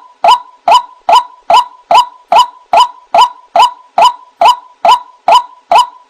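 White-breasted waterhen (ruak-ruak) giving its harsh 'kwak' call over and over, at a steady rate of about two and a half calls a second, as played from a bird-trapping lure recording.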